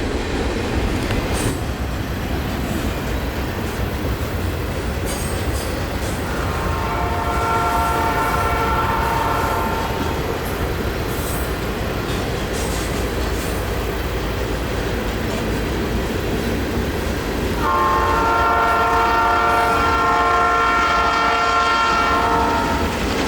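Diesel locomotive horn sounding two long multi-note blasts, the first about 4 s and the second about 5 s, the second louder. Under them a passing train rumbles steadily with wheel clatter on the rails.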